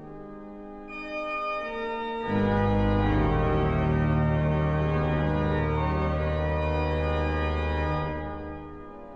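Pipe organ playing held chords: bright high notes come in about a second in, then a loud full chord with deep bass swells in just after two seconds and is held, dropping back to a soft chord near the end.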